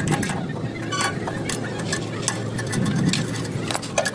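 Workshop noise: scattered sharp clicks and taps over a steady low hum.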